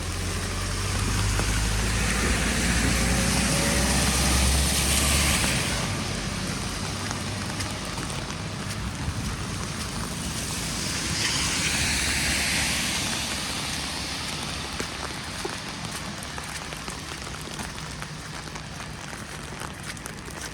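Two cars pass one after another on a wet, snowy road with tyres hissing; the first swells up and fades within the first six seconds, the second about ten seconds in. A steady hiss of falling wet snow continues throughout.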